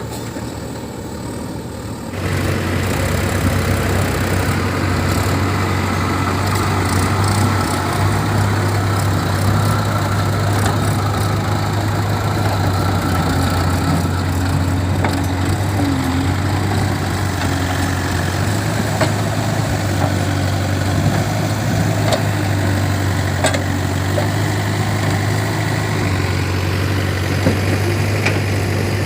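Heavy diesel engine running steadily, getting louder about two seconds in and staying at that level, with a few faint clicks.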